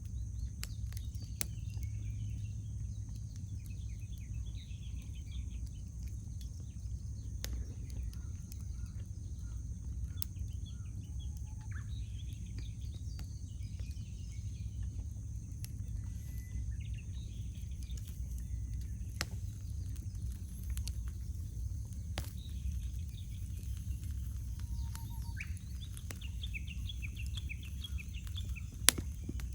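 Wood campfire crackling with scattered small clicks and one sharp, loud pop near the end, while small birds chirp and sing throughout over a steady low rumble.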